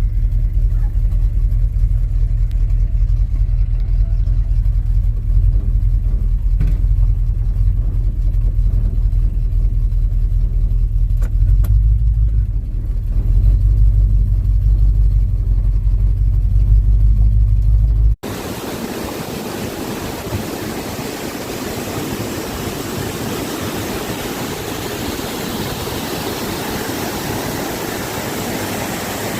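1979 Ford truck's engine running with a loud, deep rumble that shifts slightly partway through. About 18 seconds in it cuts off abruptly, replaced by a steady, even rushing hiss.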